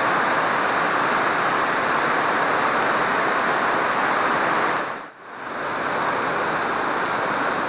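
Heavy rain pouring in a steady hiss, dipping briefly about five seconds in.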